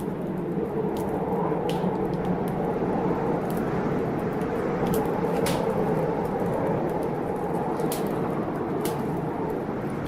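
Wood fire in a fireplace crackling, with sharp irregular pops about once a second, over the steady low noise of a storm.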